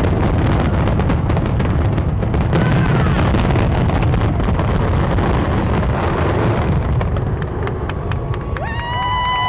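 Fireworks finale: a dense, rapid run of booms and crackling bursts over a continuous low rumble. The bursts thin out about eight seconds in, and a long steady high tone starts near the end.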